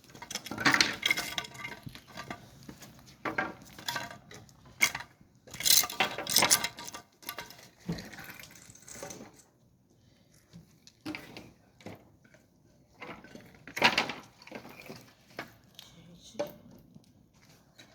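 Irregular clinks and knocks of pots, dishes and metal utensils being handled, with faint indistinct voices. The sharpest clatter comes in bunches about a second in, around six seconds in, and once near fourteen seconds.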